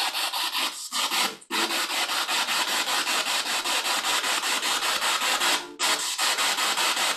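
Spirit box sweeping through radio stations: loud rushing static chopped about six times a second. It cuts out briefly twice.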